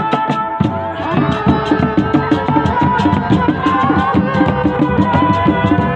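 Live traditional Javanese ensemble music: hand drums play a fast, even rhythm under a held melodic line. The drums break off briefly just after the start and come back in about a second in.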